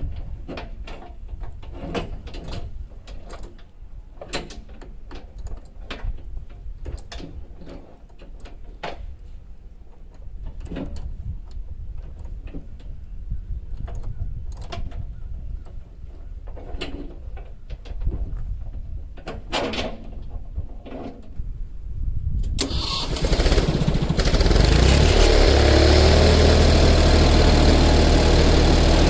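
Scattered knocks and clicks over a low rumble, then about 23 seconds in an engine starts suddenly and keeps running loudly and steadily.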